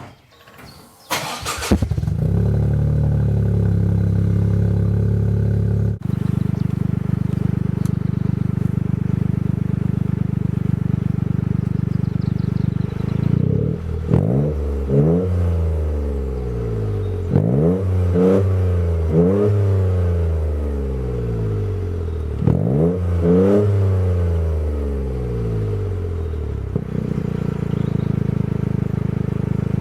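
Toyota GR Yaris's 1.6-litre turbocharged three-cylinder engine breathing through an aftermarket non-resonated stainless Speed Noise exhaust muffler. It starts about a second in and idles steadily, then is blipped in several quick revs, in clusters through the middle, each dropping back to idle.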